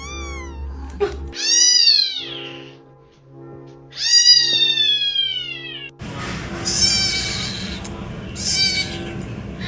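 A domestic cat meowing again and again: long, drawn-out meows that fall in pitch, over background music.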